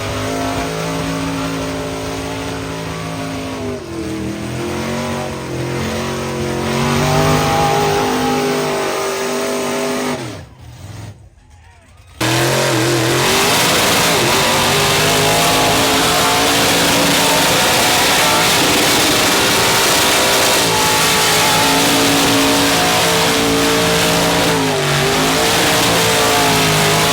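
Mega truck's big engine held at high revs, its pitch sagging and climbing again as the throttle is worked. It drops away abruptly for a second or two near the middle, then comes back loud and steady at high revs until the end.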